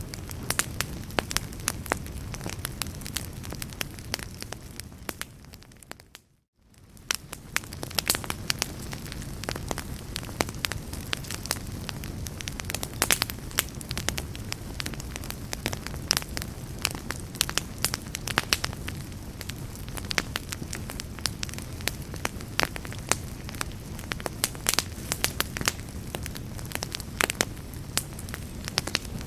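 Wood fire crackling in a fireplace: a steady low rumble of flames with frequent sharp pops and snaps. About six seconds in it fades down to near silence for a moment and fades back in, like a loop being joined.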